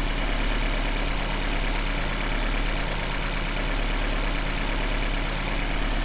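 Honda four-cylinder engine idling steadily.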